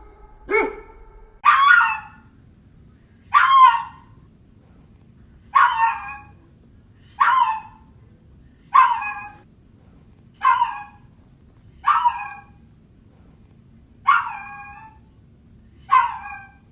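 Dog barking angrily in single barks, about one every one and a half to two seconds. The first bark is deeper than the rest.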